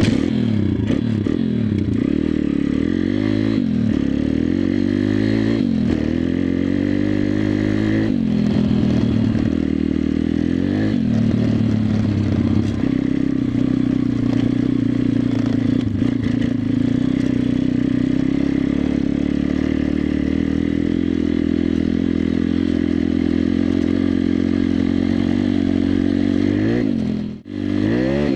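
WPB 140 Race pitbike's single-cylinder four-stroke engine under riding, revving up and falling back repeatedly through the gears for the first dozen seconds, then held at a steady high engine speed. The sound drops out for a moment near the end and comes straight back.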